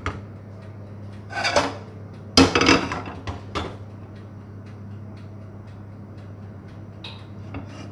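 Kitchen utensils and a pan clattering: a few knocks and scrapes of metal in the first few seconds, the loudest about two and a half seconds in, over a steady low hum.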